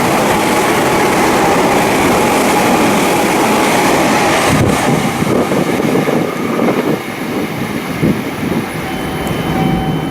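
Meitetsu 2000 series μSKY limited express passing through a station at speed: a loud, steady rush of wheels on rail that starts to die away about halfway through and keeps fading.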